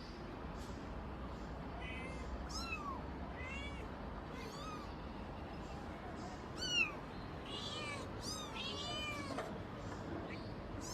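Kittens mewing repeatedly: short, high-pitched cries that rise and fall. The calls come thick and overlapping for a couple of seconds after the middle, and the loudest is about seven seconds in.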